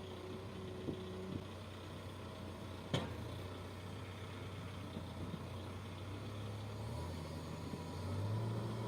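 Earth-moving machine's engine running steadily at low revs, with a sharp click about three seconds in and the engine note lifting slightly near the end.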